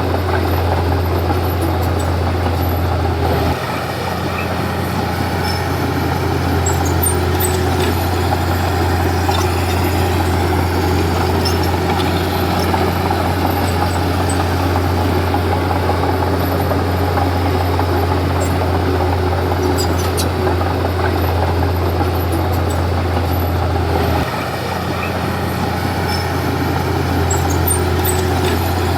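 Komatsu D31P bulldozer's diesel engine running steadily while it works. Its note shifts and the loudness dips slightly a few seconds in and again about five seconds before the end.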